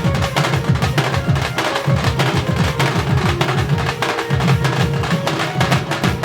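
Drum-led band music in a Karma rhythm: fast, dense drum strokes over deep bass beats, with a held note sounding above them at times.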